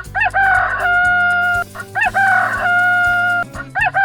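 Rooster crowing cock-a-doodle-doo three times, about two seconds apart, each crow ending in a long held note; the third starts near the end. Light background music plays underneath.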